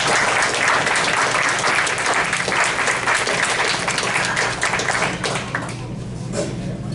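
Audience applauding: a dense round of clapping that thins out in the last second or so.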